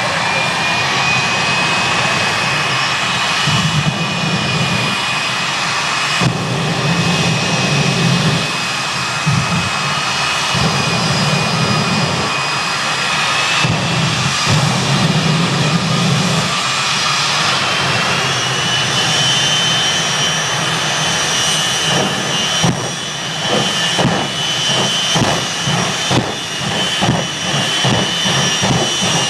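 Jet engines of jet-powered drag racing vehicles running at high power: a loud, steady turbine whine over a deep rumble that swells and fades. About 22 seconds in the sound turns choppy, with rapid uneven pulses.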